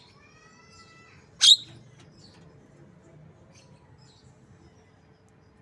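Javan myna (jalak kebo) mimicking white-rumped shama song: a whistled note in the first second, then one sharp, loud call about a second and a half in, followed by faint short chirps.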